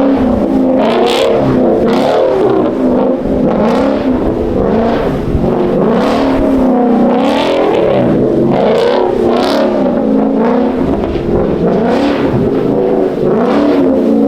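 Chevrolet Camaro with full bolt-ons, its V8 revving up and down again and again, the pitch rising and falling every second or so as the car spins its wheels sliding on snow.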